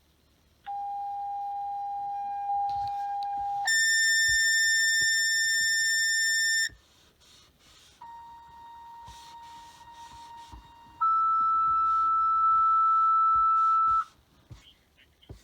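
Fire dispatch two-tone sequential paging tones over the radio: a lower tone held about three seconds, then a higher tone for about three seconds. After a short pause a second pair of tones follows the same pattern, alerting the fire company to a call.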